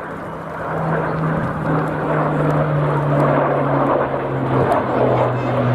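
Supermarine Spitfire's piston engine droning as it flies past, its pitch falling slowly and the level rising a little.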